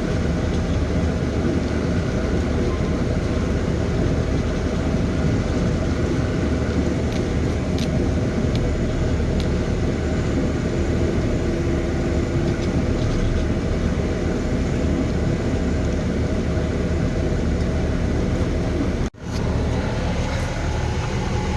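Tata Signa truck's diesel engine running steadily while the truck is moved into a parking spot, with a brief dropout in the sound near the end.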